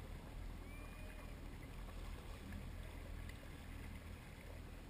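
Jet ski engine idling with a steady low rumble, with water noise around it.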